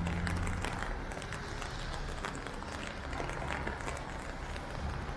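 Steady rain falling, heard as an even hiss with many close, crackly drop taps. A vehicle's low engine hum fades out in the first second.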